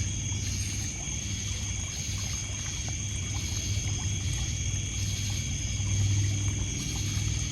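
Night lakeshore ambience: a steady chorus of crickets and other insects, some pulsing in a regular rhythm, over water splashing on a pebble beach, with faint crackles from a wood campfire.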